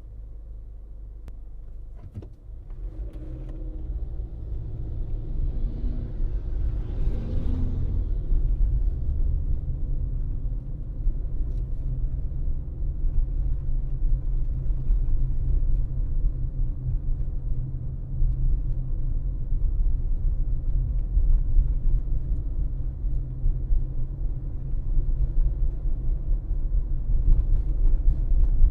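Low, steady rumble of a car driving on the road. It grows louder a few seconds in, then holds.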